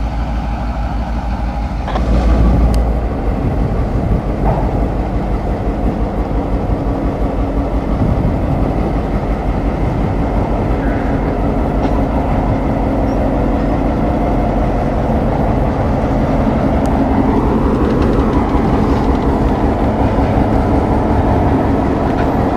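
Diesel locomotive running close by, its engine getting louder about two seconds in, then a steady rumble as the train moves.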